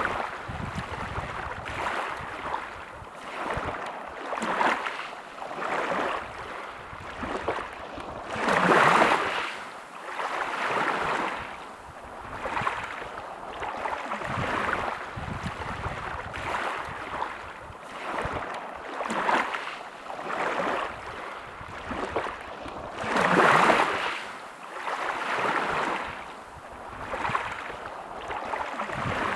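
Sea waves washing onto a beach, the surf swelling and falling back every second or two, with two bigger waves breaking about a third of the way in and again near the end.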